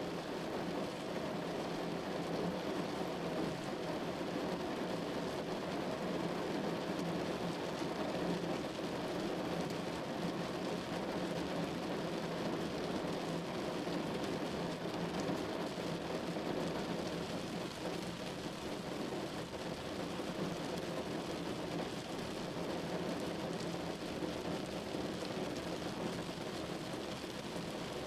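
Steady rain falling on a window, an even, unbroken patter of drops that holds at the same level throughout.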